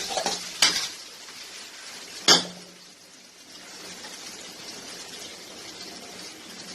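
A cooking utensil stirs and scrapes chicken in a pan for about a second, then strikes the pan once, sharply, a little after two seconds in. After that comes a faint, steady sizzle of the chicken cooking on low heat.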